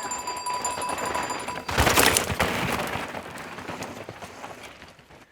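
A steady high electronic tone, cut off about two seconds in by a sudden loud burst of rapid rattling clatter that fades away over the next few seconds.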